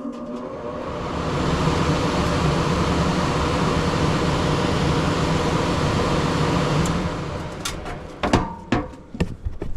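HVAC blower starting up after repair: a rush of air that builds over the first second or so and then runs steady. About seven seconds in it falls away, followed by several sharp knocks and clatters.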